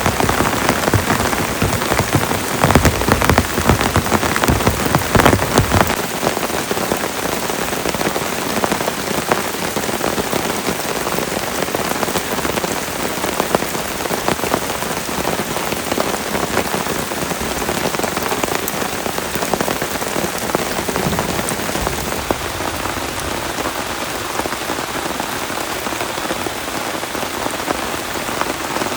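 Heavy rain falling steadily. For the first six seconds there are heavier, deeper hits of drops on a surface, and then it settles into an even patter.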